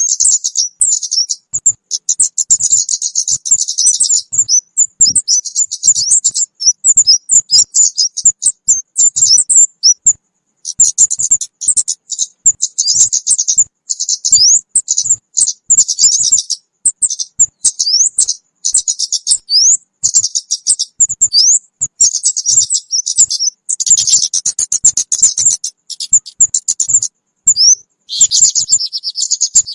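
Looped lure recording of kemade bird calls: dense, rapid, high-pitched chirps and short twittering glides, with a brief pause about ten seconds in.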